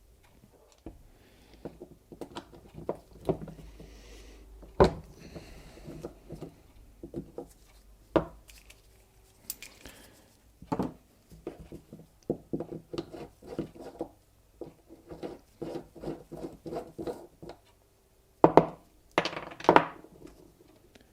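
Hand tools working a bicycle pedal: a 12 mm socket turning the axle nut while a 15 mm spanner holds the spindle. Sharp metal clicks and knocks run through it, with a quick run of clicks in the middle and a few louder knocks against the bench near the end.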